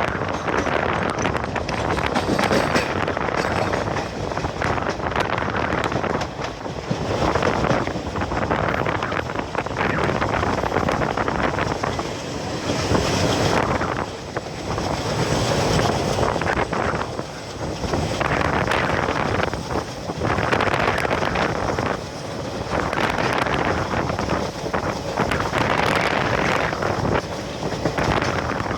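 ALCO WDM-3A diesel locomotive's 16-cylinder engine chugging in top notch at full speed, heavily buffeted by wind on the microphone. The loudness swells and dips every second or two.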